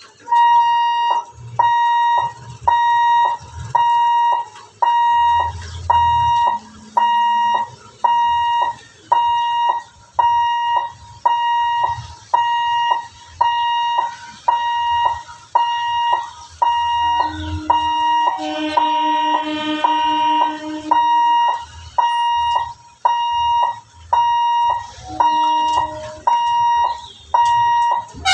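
Level-crossing warning buzzer beeping about once a second in a steady, high-pitched repeating tone, warning that a train is approaching. Past the middle a lower horn sounds for about three seconds, and again briefly near the end.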